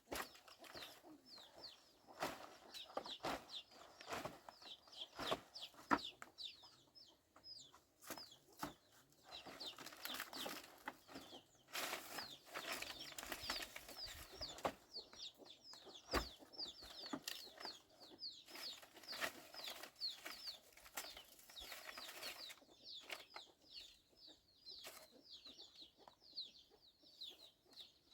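Chickens clucking, with many short high falling cheeps repeating throughout. Scattered sharp knocks and stretches of rustling noise are mixed in.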